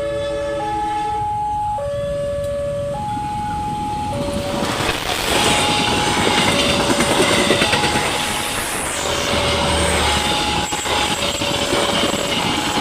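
Railway level-crossing alarm sounding its alternating two-tone signal, high and low, each held about a second. About four and a half seconds in, a train begins rushing past at speed, its wheels clattering on the rails over the alarm.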